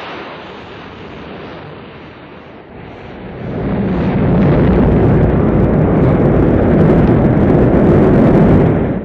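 Rocket engines firing during a launch: a noisy low rumble that swells sharply about three and a half seconds in and then holds loud and steady.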